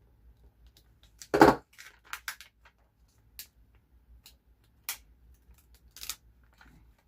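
Paper and sticker sheets being handled at a craft table: one loud rustle with a thump about a second and a half in, then a handful of short, crisp paper clicks and crinkles.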